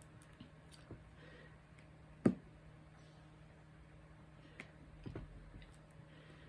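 Quiet room tone with a few scattered light clicks and taps, and one sharper knock a little over two seconds in.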